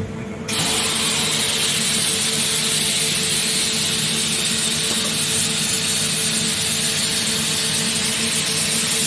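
Mazak H-500/40 machining centre running: a loud, steady rushing noise starts suddenly about half a second in, over a steady machine hum.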